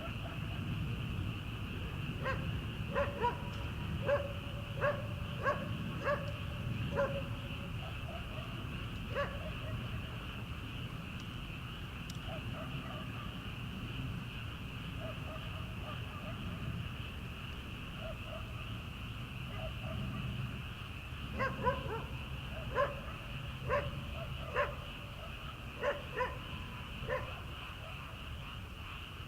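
A farm dog barking in the distance in two runs of short barks, the first a few seconds in and the second in the last third, over a steady chorus of paddy frogs calling.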